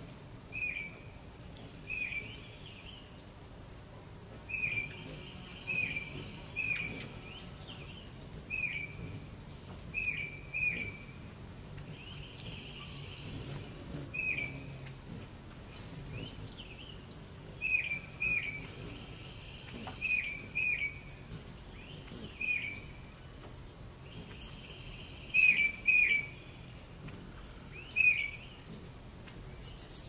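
Birds chirping: short, sharp chirps, often in pairs, repeated every second or two, the loudest pair a few seconds before the end. A buzzy trill comes and goes behind them in stretches.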